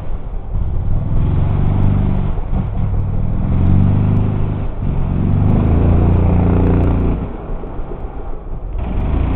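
Enduro motorcycle engine revving in repeated surges, the pitch rising and falling several times, then easing off about seven seconds in before picking up again near the end.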